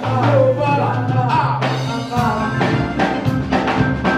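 Church praise-and-worship music: a voice singing over a band with bass and drums, the bass holding one low note for about the first half.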